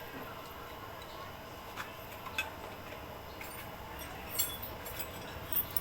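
A few light metallic clinks and taps from hand tools and engine parts, spaced irregularly, over a steady background hiss.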